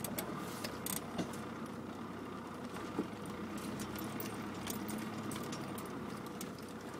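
Land Rover Discovery Mk1 engine running steadily at low speed, heard from inside the cab, with light clicking and rattling of loose items in the vehicle.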